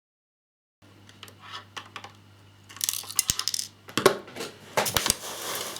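After about a second of dead silence, small plastic model parts being handled and fitted: a run of light clicks, taps and rattles, busiest in the middle, over a faint mains hum.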